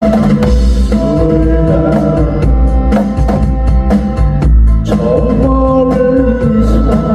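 A drum kit played along to a recorded song with singing, the drums striking on a steady beat.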